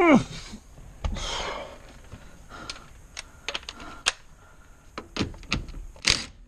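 Scattered sharp metallic clicks and clinks of a socket and hand tools being handled at the steering wheel nut, with a short falling vocal sound at the start and a breathy noise about a second in.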